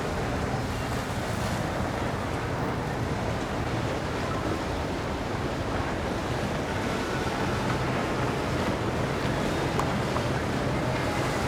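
Steady rush of water and wind on the microphone, with a low drone of boat engines underneath.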